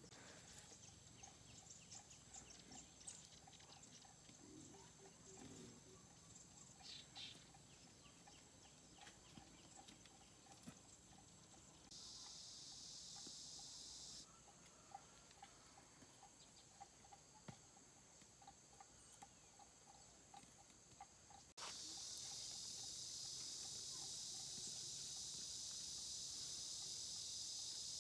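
Faint rural outdoor ambience: a steady high insect drone with a faint, evenly repeated call two or three times a second and a few scattered farmyard animal sounds. About three-quarters of the way through, the sound cuts abruptly to a louder, denser insect drone.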